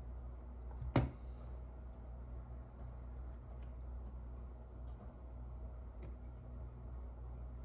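A single sharp click about a second in, over a steady low hum, with a few faint small ticks of handling.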